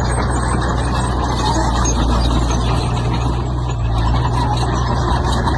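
Diesel engine of heavy earthmoving machinery running steadily under load, with mechanical clatter over it.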